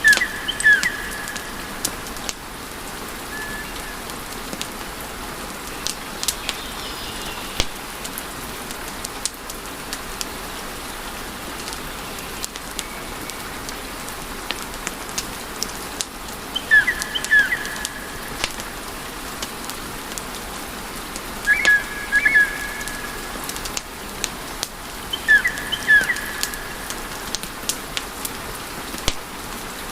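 Wood fire crackling, with scattered sharp pops over a steady hiss. Four times, short high-pitched chirps sound in quick pairs, near the start and three more times in the second half.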